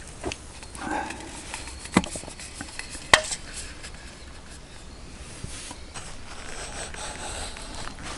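Handling sounds: a few sharp knocks and clicks, the loudest about three seconds in, amid light rustling.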